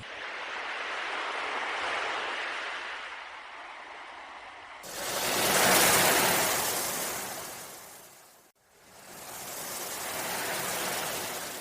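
Sea waves surging in and washing back in slow swells. The loudest surge starts suddenly about five seconds in, then dies away almost to nothing before the next one builds.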